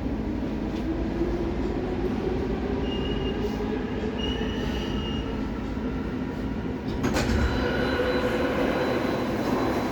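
Inside a St Petersburg metro car of the Baltiets type (81-722), the train runs and brakes into a station: steady low rumble, with a brief thin high squeal from the wheels or brakes midway. About seven seconds in, a sudden louder burst of noise starts.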